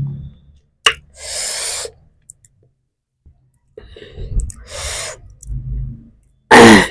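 A person eating in front of the microphone: a sharp click, two breathy hisses of breath, and near the end a short, loud vocal cry that falls in pitch.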